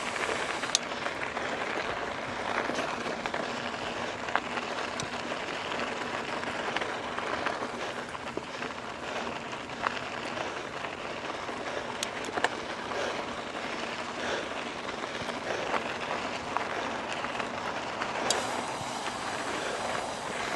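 Trek Roscoe 8 mountain bike with tubeless tyres rolling along a trail: a steady rush of tyre and wind noise with scattered sharp clicks and rattles.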